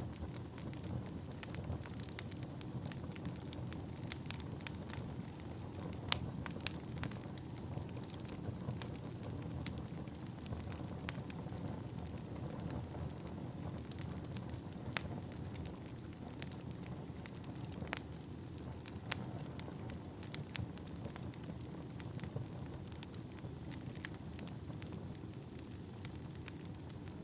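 Wood fire burning in a fireplace, a steady low rumble with many irregular sharp crackles and pops. A faint high whistle, falling slightly in pitch, sounds over the last few seconds.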